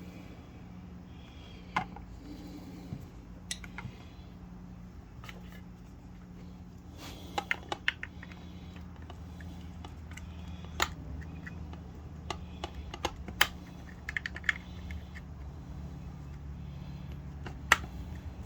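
Scattered sharp clicks and clinks of pliers and wrenches on the small bolts and parts of a septic aerator pump being taken apart, loudest in short clusters, over a steady low hum.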